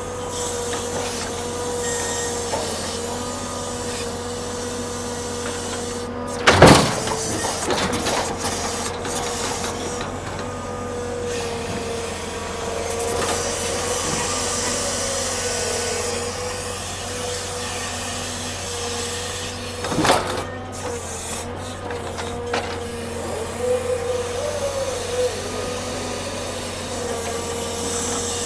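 Heavy machinery running steadily with a whining tone, with a loud clunk about six and a half seconds in, another around twenty seconds, and a few lighter knocks near the end, as logs are handled during a log truck unloading.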